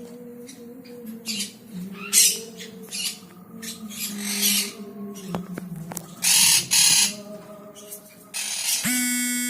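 Baby birds giving short, harsh rasping begging calls in repeated bursts over a steady low hum. Music starts near the end.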